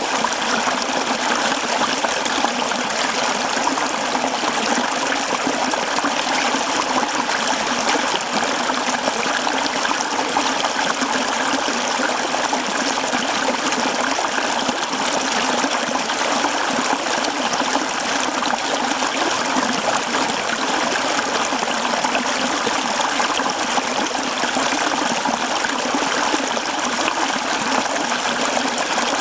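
Mountain stream flowing over rocks: a steady, even babbling and rushing of water.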